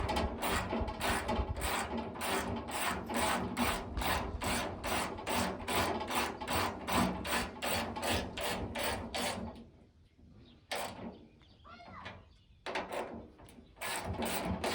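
Rhythmic rasping strokes of a hand tool worked back and forth on a surface, about three strokes a second. The strokes stop about two-thirds of the way through and start again briefly near the end.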